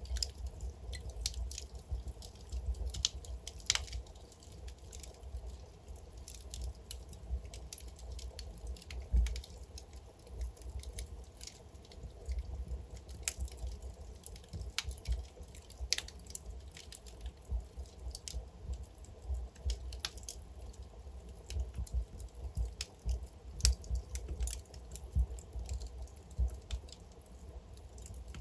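Logs burning in a fireplace: irregular sharp crackles and pops, several a second and unevenly spaced, over a low steady rumble of the flames.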